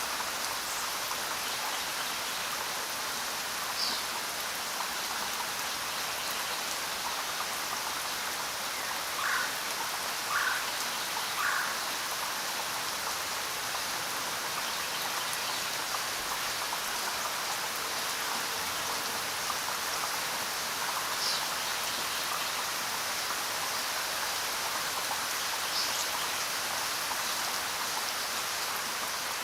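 Steady rain falling and pattering on surfaces, an even hiss of drops. A little before halfway, three short louder sounds come about a second apart.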